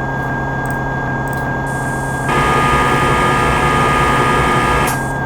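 Simulated CNC milling machine running a program in the Swansoft simulator after cycle start: a steady machine hum with fixed tones. It gets louder and fuller about two seconds in and drops back near the end.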